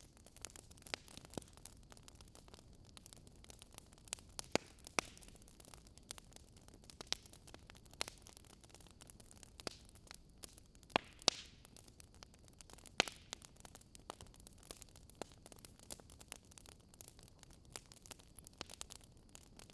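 Wood fire crackling: irregular sharp pops and snaps, a few louder than the rest, over a faint steady hiss.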